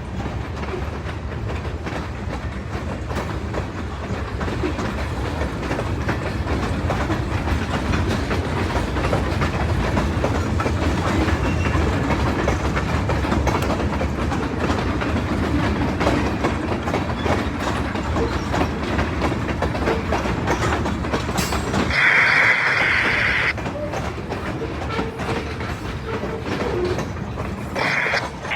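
Freight train rolling past, its cars clattering over the rail joints with a steady low rumble. A brief high-pitched squeal rises over it about three-quarters of the way through.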